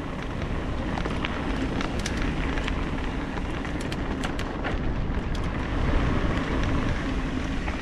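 A mountain bike rolling along a dirt single-track, heard from a helmet-mounted camera: a steady rush of wind and tyre noise, with scattered sharp clicks and rattles from the bike.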